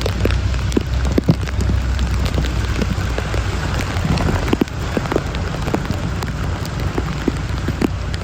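Heavy rain pouring down, with many individual drops striking close by over a steady low rumble.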